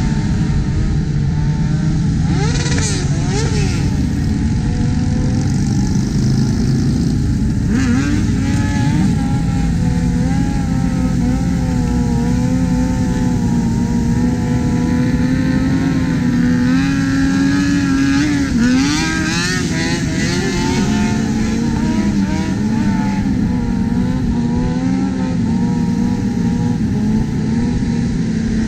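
Sport motorcycle engines running at speed on a highway, their pitch rising and falling with the throttle and quick revs about 3 seconds in and again around 19 to 20 seconds in, over a steady rush of wind and road noise.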